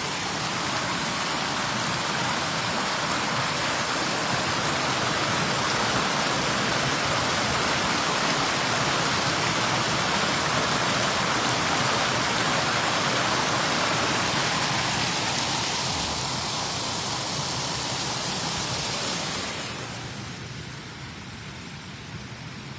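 Water pouring over a small waterfall, a steady rushing hiss that grows noticeably quieter and duller about twenty seconds in.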